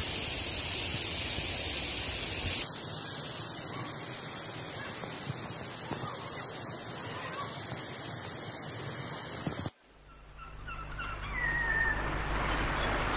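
Steady rushing of the stream below Bee Falls, a waterfall, flowing over boulders. It cuts off suddenly about ten seconds in, and music fades in.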